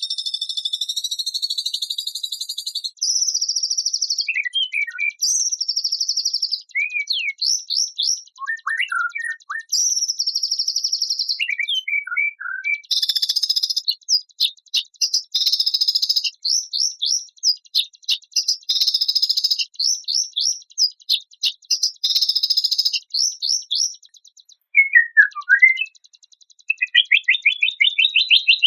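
Songbird song: dense runs of rapid, high-pitched chirps and buzzy phrases with short pauses, ending in a fast rattling trill.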